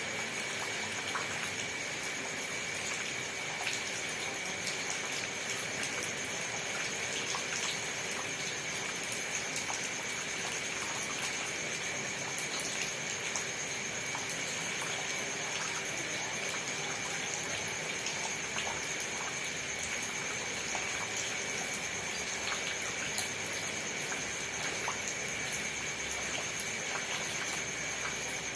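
Steady rain: an even hiss with many single drops ticking through it, and a few faint steady tones underneath.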